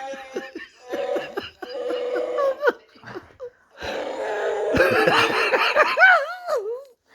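Chewbacca-style Wookiee growls and roars: a few short warbling calls, then a longer, louder one whose pitch swoops up and down several times near the end.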